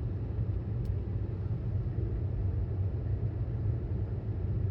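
Steady low rumble of road and tyre noise inside the cabin of a moving Tesla Model S 75D, an electric car with no engine note, with one brief click about a second in.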